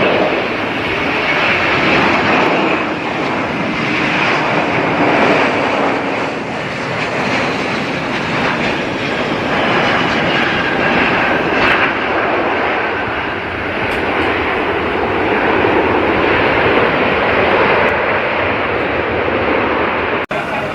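Airliner engines running loud and steady, the noise slowly swelling and easing, with a brief dropout near the end.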